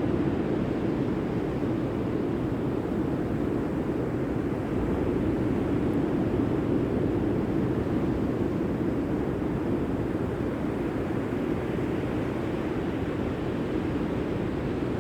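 Steady rushing noise of the sea, an even wash of surf with no single wave or other event standing out.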